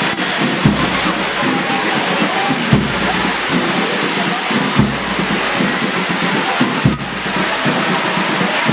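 Heavy rain pouring down steadily, with a deep drum beat about every two seconds.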